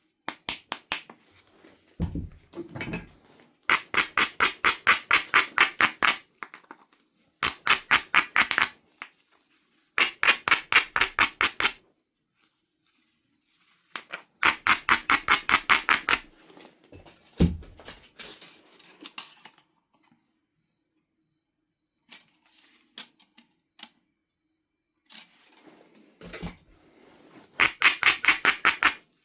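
Rapid back-and-forth grinding strokes of an abrading stone along the edge of a Knife River flint biface, about six strokes a second in bursts of a couple of seconds, preparing the platforms for flaking. A few dull knocks come between the bursts.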